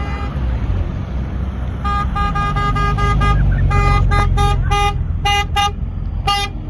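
Car horn tooting a quick run of short beeps about two seconds in, then several longer blasts, over a steady low engine rumble.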